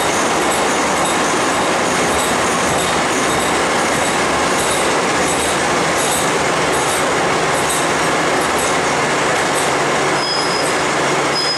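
Ordinary Thai State Railway passenger train running along the track, heard from the carriage window: a steady rushing noise of wheels on the rails. A thin high squeal comes in briefly near the end.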